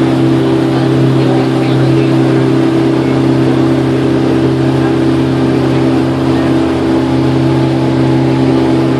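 A boat's engine running steadily: a constant low drone that holds one pitch throughout.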